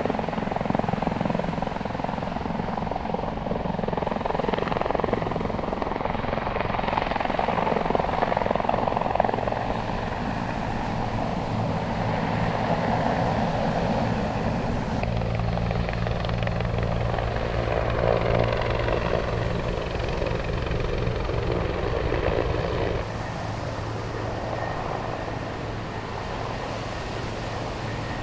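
Rescue helicopter's rotor and turbine noise, running steadily. Its low hum grows stronger about halfway through, and the overall level drops slightly near the end.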